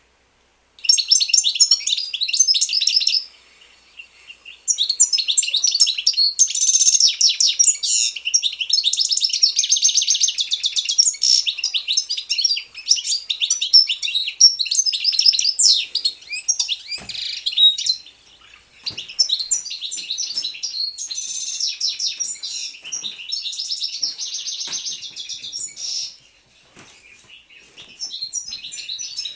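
Small songbirds singing: long phrases of rapid, high chirps and twitters, with a couple of short pauses.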